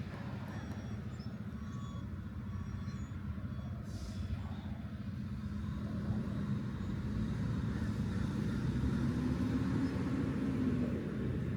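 A motor vehicle's engine running, getting louder in the second half as it comes closer.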